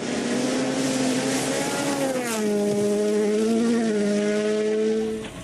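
Rally car engine running hard at high revs. Its note drops about two seconds in and then holds steady.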